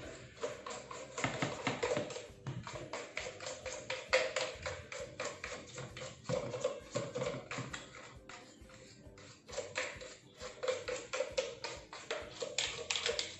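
A brush scrubbing the plastic housing of a Dyson V6 cordless vacuum in quick, irregular strokes, several a second, with background music underneath.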